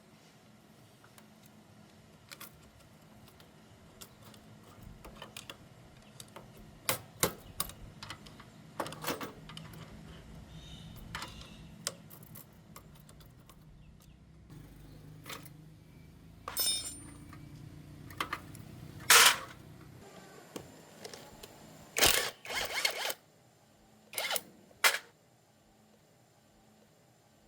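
Hand tools and metal engine parts clinking and knocking at irregular intervals during work on a small motorcycle engine, over a low hum that stops about two-thirds of the way through.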